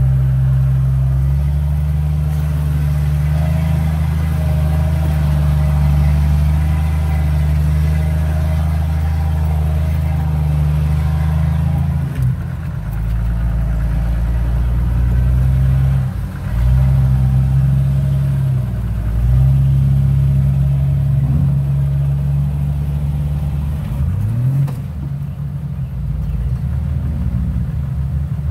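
Jeep engine running at low revs as it crawls along a dirt off-road trail, steady for long stretches, easing off and picking up again a few times in the middle and the second half.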